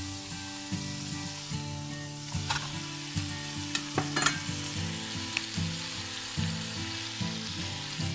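Food sizzling in oil in a nonstick wok while a spatula stirs it, with a few sharp clatters about two and a half and four seconds in. Faint background music plays underneath.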